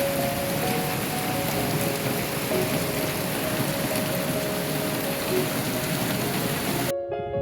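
Heavy rain falling in a dense, steady hiss, with soft music underneath. The rain cuts off abruptly near the end, leaving only the music.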